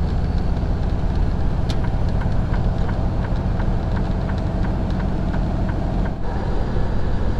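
Semi truck running down the road: a steady low engine and road rumble, with a few faint ticks and a brief dip in level about six seconds in.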